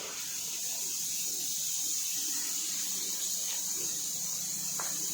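Steady hiss of rain falling, an even wash of sound with no breaks.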